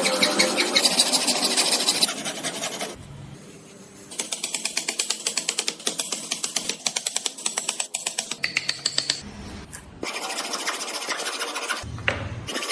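Woodworking tool sounds in short cut-together clips: a stretch of dense scraping noise, then a fast run of regular strokes, several a second, in the middle, then more steady working noise.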